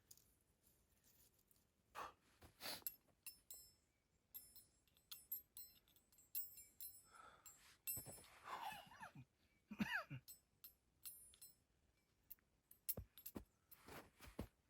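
Faint, scattered light clinks and clicks, several with a short metallic ring, and a few brief squeaky slides around eight to ten seconds in.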